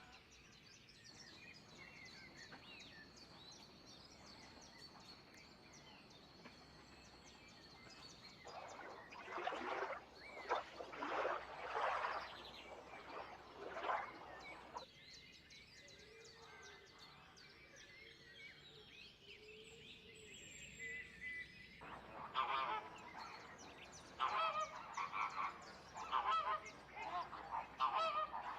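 Birds calling in two loud bouts of rapid, repeated calls, the first about a third of the way in and the second near the end, with a thin steady high note in the background at the start.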